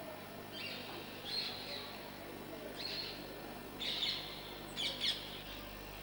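Bird calling: about five short, high chirping calls roughly a second apart, the last ones loudest near the end, over a steady background hiss.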